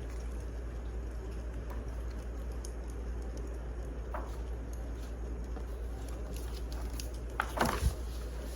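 Wood fire crackling: a steady hiss with a low hum under it and scattered small pops. A brief, louder clatter of cracks comes near the end.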